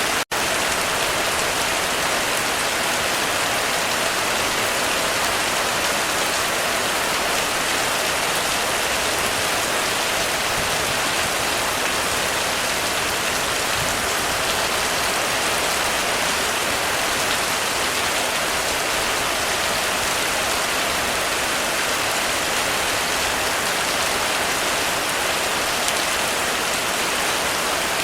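Heavy rain drumming steadily on a roof, a dense even hiss with no thunder. It cuts out for an instant right at the start.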